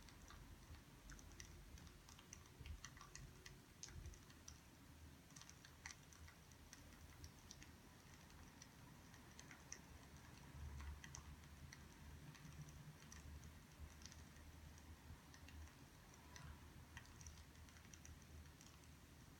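Faint, irregular light clicks and ticks, several a second, over a low steady hum.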